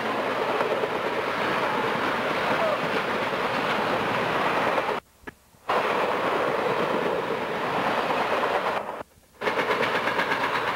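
A passenger train passing close by, its wheels clattering rapidly over the rail joints. The sound cuts out suddenly twice, for under a second each time.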